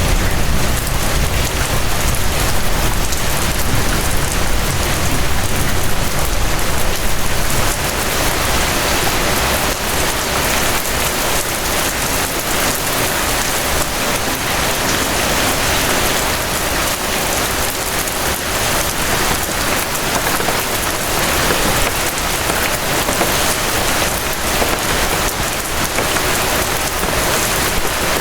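Steady rain falling, an even patter of many drops, with a low rumble underneath for the first several seconds that fades out.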